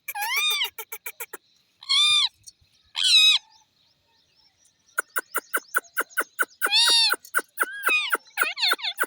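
Ringneck parakeets calling: short shrill screeches that rise and fall in pitch, mixed with runs of rapid clicking chatter. There is a pause of about a second and a half midway, then the calls and chatter pick up again.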